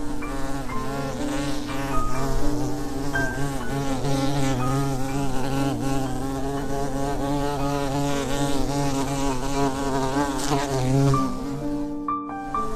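Buzzing of a flying insect: a steady, loud drone that wavers regularly in pitch, breaking off briefly near the end before it starts again.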